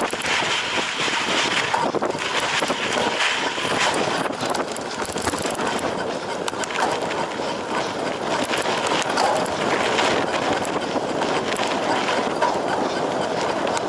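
A cyclocross bike ridden hard over rough off-road ground, with a steady rush of tyre noise and a dense, irregular rattling of the bike.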